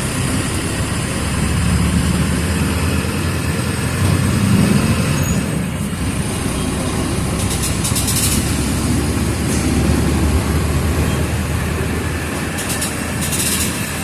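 Mercedes-Benz OF 1722M city bus's diesel engine running, its sound swelling and easing a few times. Two short high-pitched noises come about halfway through and near the end.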